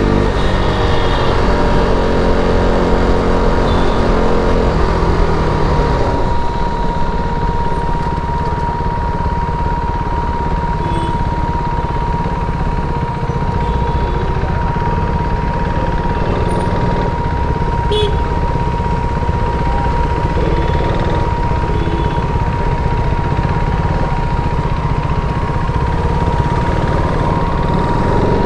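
KTM RC 390 single-cylinder engine on its stock exhaust, held at steady revs and then dropping off about six seconds in to a low, uneven rumble at slow speed in traffic. A thin steady high-pitched tone sounds throughout.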